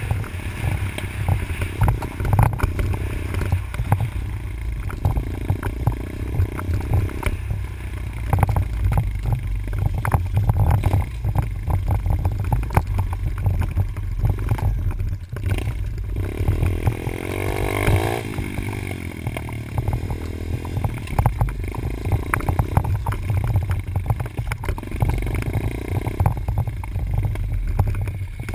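Dirt bike engine running on a track, its pitch coming and going with the throttle, with one clear rev that rises and falls about halfway through. It is heard through an on-board GoPro microphone under heavy wind rumble, with frequent knocks and clatter.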